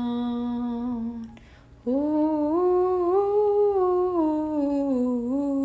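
A woman singing unaccompanied holds a long, steady note on the word "down", which ends about a second in. After a short breath she hums a slow wordless melody that rises and then falls.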